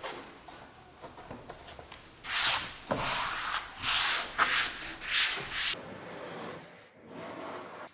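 Hand sanding of wood: about five brisk back-and-forth rubbing strokes, after a few light knocks of handling.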